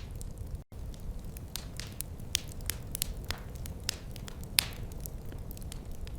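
Wood fire crackling: irregular sharp pops and snaps, a few louder than the rest, over a steady low rumble of burning. The sound drops out for an instant under a second in.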